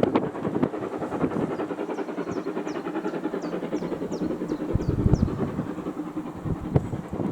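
Steam-hauled train rolling past, with a dense, rapid clatter of wheels and running gear on the track. The clatter grows heavier about five seconds in.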